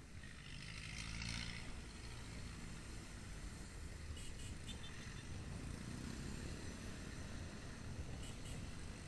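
Motorcycle engine running steadily at low revs, with a brief hiss about a second in.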